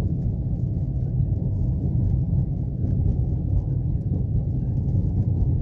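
A moving car, with a steady low rumble of engine and road noise while driving.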